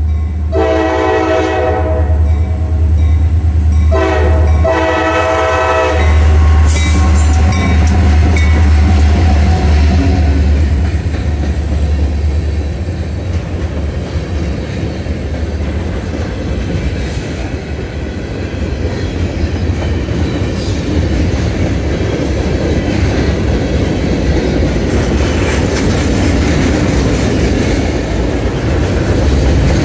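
Diesel freight locomotive's air horn sounds two blasts, each a chord of several tones, over the low steady drone of its engine, then the train rolls past with rail and wheel noise and clickety-clack.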